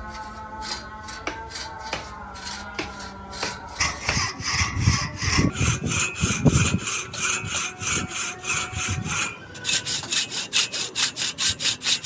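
Handsaw cutting wood in steady back-and-forth strokes, about three a second. The strokes grow louder about four seconds in and quicken near the end.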